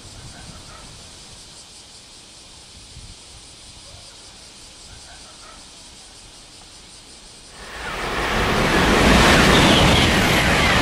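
Class 923 Doctor Yellow shinkansen test train passing at high speed: after a quiet stretch, a loud rushing noise swells up within about a second, a little over two-thirds of the way in, and holds steady as the train goes by.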